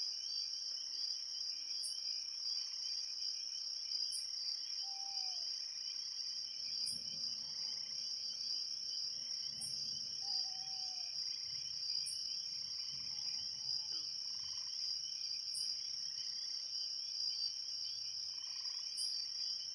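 A steady evening insect chorus, crickets or similar, chirring without a break. A separate high chirp comes every two to three seconds, and a couple of faint, short, slightly falling whistled notes are heard.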